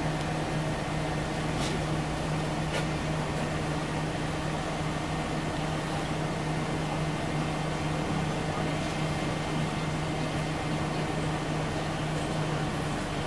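Scania OmniLink CL94UB bus heard from inside the passenger cabin: a steady engine and road drone with a constant low hum and no change in pace.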